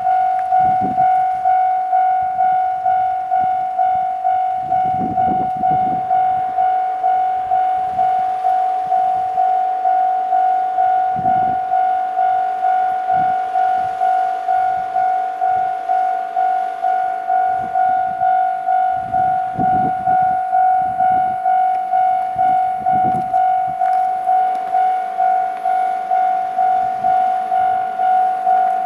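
Japanese level crossing warning bell ringing steadily, its electronic strokes repeating evenly less than a second apart, while a freight train pulls away, giving occasional low rumbles and thuds underneath.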